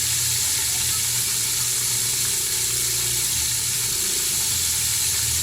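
Chicken pieces frying in hot oil, a steady sizzle, with a steady low hum underneath.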